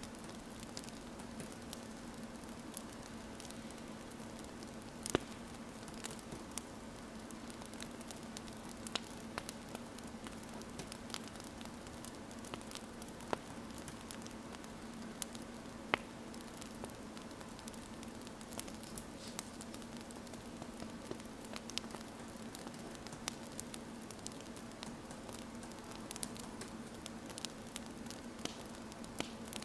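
Wood fire crackling: a steady hiss broken by scattered sharp pops, the loudest about 5 and 16 seconds in, over a faint low hum.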